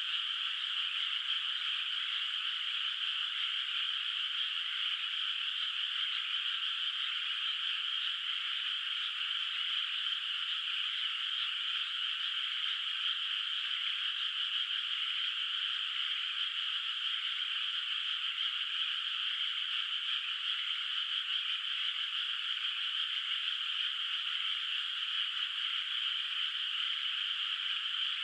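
A chorus of many frogs in a flooded rice paddy, calling together in one steady, unbroken mass of fairly high-pitched calls, with no single voice standing out.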